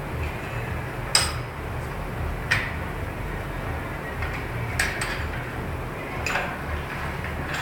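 Metal tools and parts clinking, four sharp metallic knocks a second or two apart, each with a brief ringing, over a steady low workshop hum.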